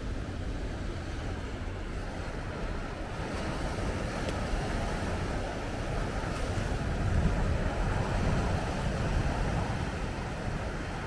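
Big ocean waves breaking on a rocky shore, a rushing surf that swells to its loudest about two-thirds of the way in and eases near the end, with wind buffeting the microphone.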